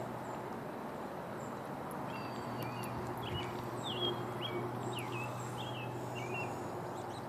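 A bird chirping in a quick string of short, high notes, starting about two seconds in and stopping shortly before the end, over a steady low outdoor hum.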